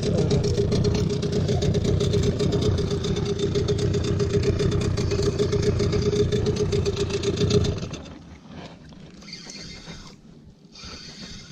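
Small outboard motor on an inflatable boat running steadily at a constant speed. It cuts off about eight seconds in, leaving a faint hiss of wind and water.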